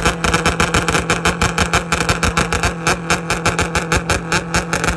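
Honda Civic ESi's four-cylinder D16 engine with P08 head, revved and held at high rpm on the rev limiter: the exhaust note stays at one pitch but stutters on and off many times a second.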